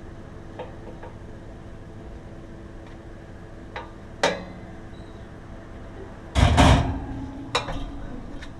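A few sharp knocks and one louder clatter lasting about half a second, about six and a half seconds in, over a steady low hum.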